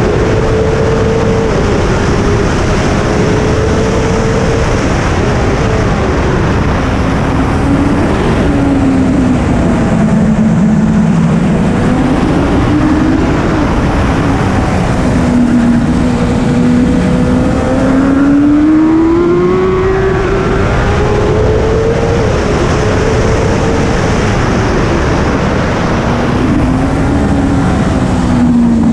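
BMW S1000RR superbike's inline-four engine on track, its pitch climbing and dropping again and again as the bike accelerates and slows through the gears. A heavy rushing noise runs under the engine throughout.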